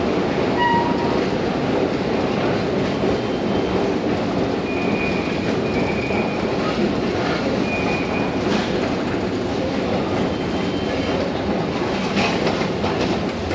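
Subway train running on steel rails: a steady rumble with brief thin squeals from the wheels in the middle and a run of clicks near the end.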